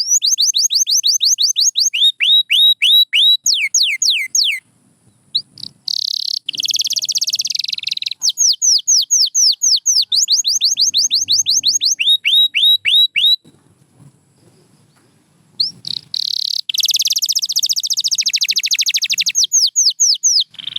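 Domestic canary singing: fast series of high whistled notes, each sliding downward, repeated several times a second, alternating with rapid buzzy trills. The song breaks off briefly twice.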